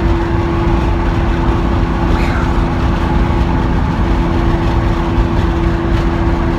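Lamborghini Aventador SV's V12 engine holding a steady drone at freeway cruise, heard from inside the cabin over a heavy low road rumble.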